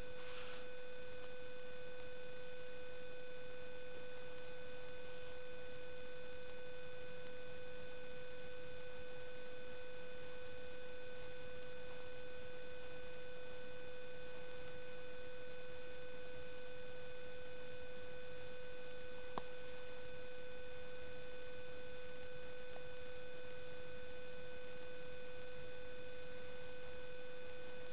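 A steady hum made of several fixed tones, the lowest and strongest the loudest, over an even hiss, with no rhythmic firing or knocking.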